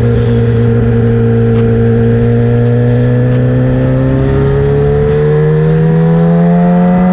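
Motorcycle engine running under load, its pitch rising slowly and steadily as the bike picks up speed.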